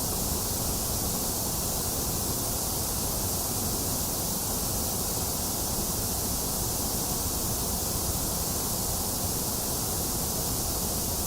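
Box fan running steadily together with falling rain: an even, unchanging hiss with a low rush beneath it.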